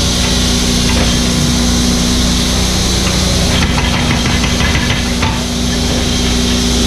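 Mini excavator's diesel engine running steadily under work, with scattered irregular knocks and clanks from the machine working.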